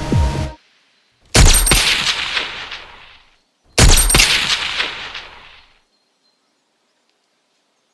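Gunfire in a film battle soundtrack: two loud bursts about two and a half seconds apart, each with a long echoing tail. A low throbbing drone cuts off about half a second in, just before the first burst.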